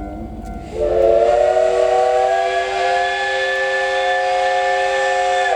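Steam locomotive whistle blown in one long blast of nearly five seconds: a steady chord of several pitches over a rush of steam hiss. It starts about a second in and cuts off sharply at the end.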